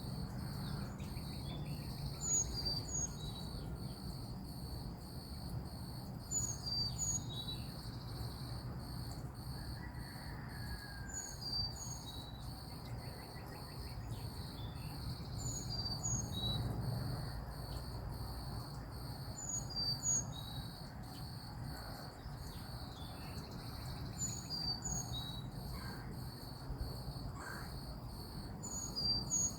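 A songbird repeating a short, high two-note call about every four seconds over a steady, pulsing drone of insects such as crickets.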